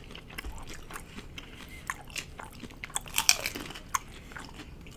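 Crunching and chewing of crisp hard taco shells close to the microphone: scattered sharp crunches, with a burst of the loudest ones about three seconds in.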